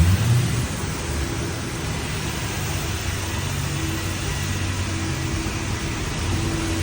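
A vehicle engine running steadily under a constant rushing noise, with a brief low thump right at the start.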